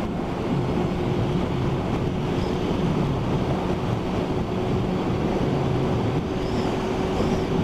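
Motorcycle cruising steadily at motorway speed in the rain: rushing wind noise over a steady engine drone, with water spray hiss from the wet road.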